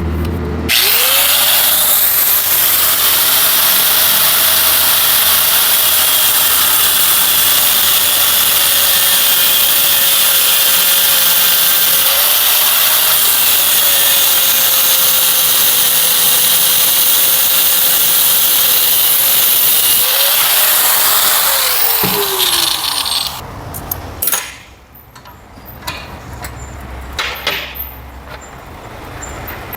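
Electric power tool cutting into a power-steering pressure hose assembly. Its motor whines steadily, sagging briefly under load about halfway and again near the end of the run, then is switched off and winds down. Quieter knocks and clatter of the parts being handled follow.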